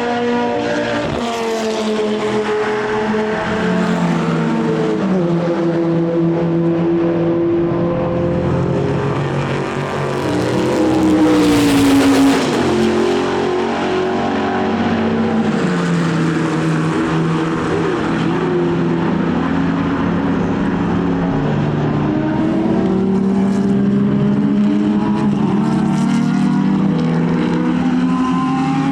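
Race car engines running hard on track, their pitch climbing and dropping through gear changes. One car passes loudest about twelve seconds in, its pitch falling as it goes by.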